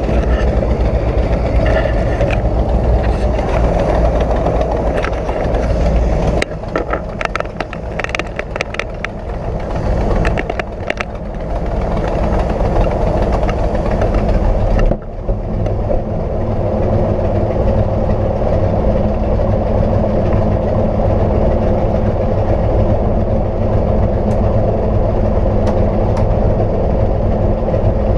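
Cozy Mk IV light aircraft's piston engine and pusher propeller running steadily, heard from inside the aircraft. A run of sharp clicks comes about six to eleven seconds in, and the hiss drops off suddenly about halfway through.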